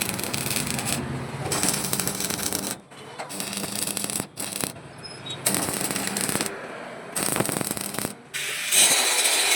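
Quick succession of short metalworking clips, mostly rough grinding or sanding on steel. Each clip is cut off abruptly after a second or so.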